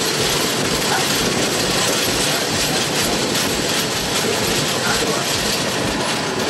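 Indian Railways express train running at speed, heard from inside a coach: a steady rush of wind and wheels on the rails, with repeated low pulses from the wheels.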